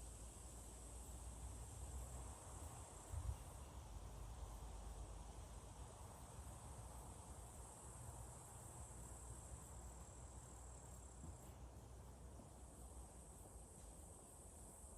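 Crickets chirping in a faint, steady high trill. A low rumble runs underneath, with one brief bump about three seconds in.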